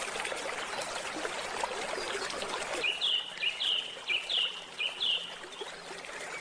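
A stream flowing and trickling, with a bird repeating the same short call five times, about two a second, midway through.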